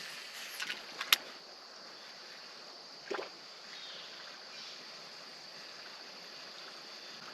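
Creek water running steadily, with a few sharp clicks in the first second or so and a short splash-like thump about three seconds in.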